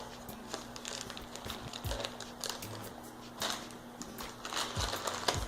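Plastic snack pouch of dried cranberry medley crinkling and crackling in short, irregular rustles as it is handled and opened.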